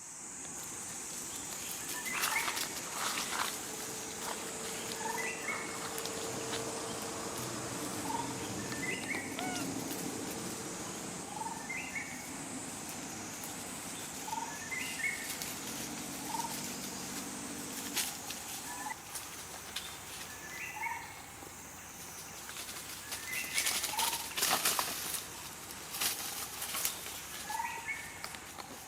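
A bird calling over and over, one short two-note call about every second and a half, over a steady high-pitched hiss. There is a burst of rustling near the end.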